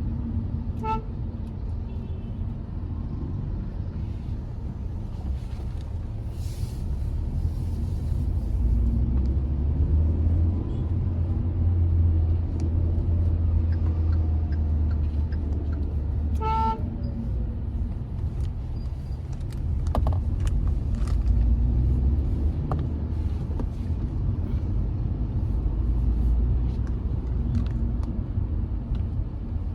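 Hyundai i20's 1.2-litre engine and tyres heard from inside the cabin while driving: a steady low drone that swells for stretches in the middle and later on. Short car-horn toots come about a second in and again around sixteen seconds.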